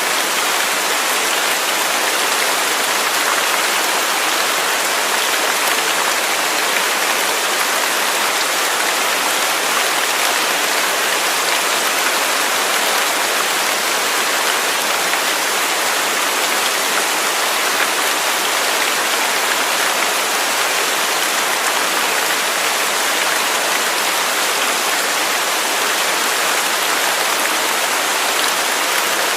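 Waterfall pouring: a steady, even rushing hiss with no change or break.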